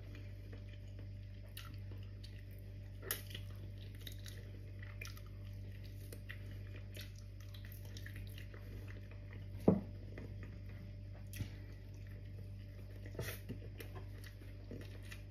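Close-up chewing and small wet mouth clicks of a person eating gelatinous braised cow's feet, over a steady low hum. A single sharp click just under ten seconds in is the loudest sound.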